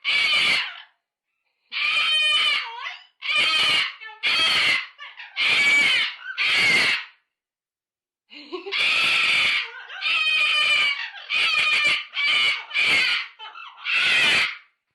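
A parrot screaming in a run of about a dozen loud, harsh calls, each half a second to a second long, with short gaps between them.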